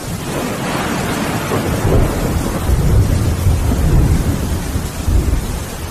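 Thunderstorm: steady heavy rain with a long roll of thunder that builds about half a second in, rumbles deep and loud for several seconds and eases off near the end.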